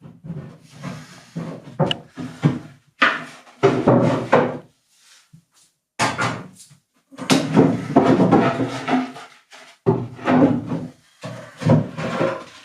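Irregular wooden knocks, bumps and scrapes, in several clusters with short pauses between them.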